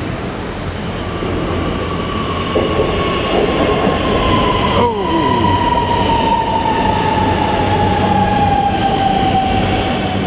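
Namo Bharat RRTS electric train pulling in and braking, its whine falling steadily in pitch as it slows while the overall sound grows slightly louder. A sharp click is heard about five seconds in.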